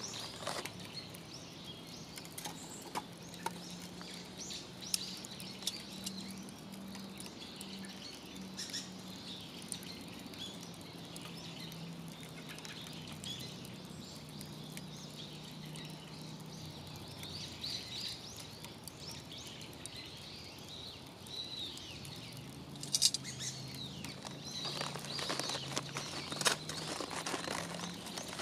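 Wood fire crackling in a small fire stand with scattered pops, including a brief cluster of louder pops about two-thirds of the way in. Birds chirp in the background, and a low steady hum slowly shifts in pitch throughout.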